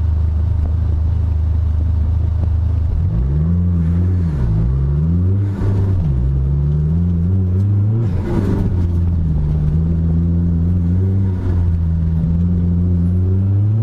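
Dodge Neon SRT-4's turbocharged four-cylinder engine being driven hard, its pitch climbing and dropping again and again as it accelerates and slows, over a steady low drone.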